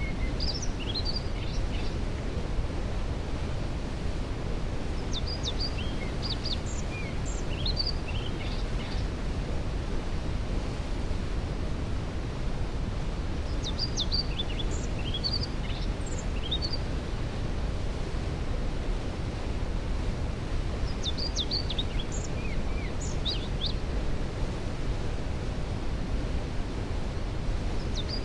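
Steady thundering rush of a waterfall, with a songbird repeating a short song of quick, high notes about every seven or eight seconds.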